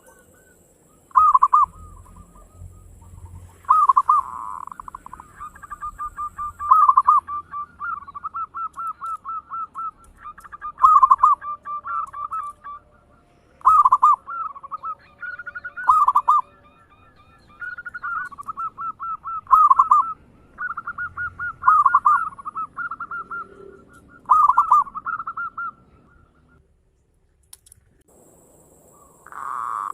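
Zebra dove (perkutut) singing: repeated phrases, each a loud coo followed by a quick string of short notes, with a pause of a couple of seconds near the end.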